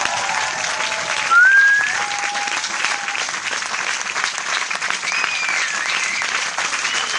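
Large crowd applauding, dense and steady clapping, with shrill whistles over it; the loudest is a short rising whistle about a second and a half in.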